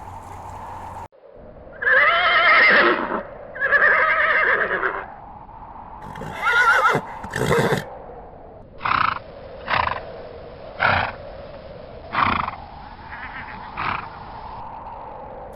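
An animal calling: two long calls with a wavering pitch, a shorter call, then a string of about six short calls.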